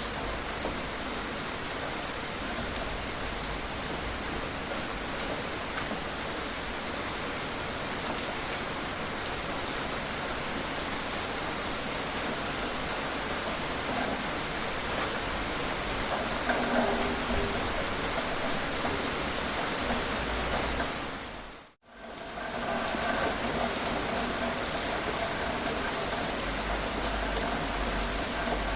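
Steady rain falling, an even hiss of drops on surfaces with no thunder. About three quarters of the way through it fades out to silence for a moment and fades straight back in.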